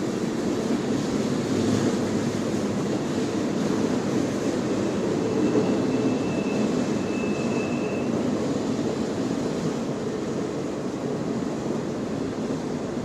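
CN freight train rolling past, a steady rumble of rail cars on the track, with a faint thin high-pitched squeal for about three seconds around the middle.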